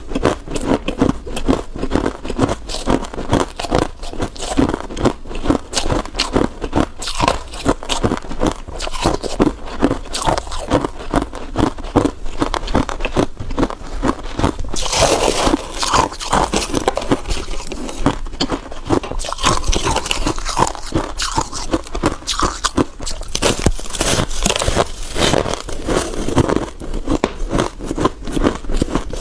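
Close-up crunching and chewing of freezer frost ice, a dense run of rapid crunches. There are harsher, brighter stretches about halfway through and again near the end.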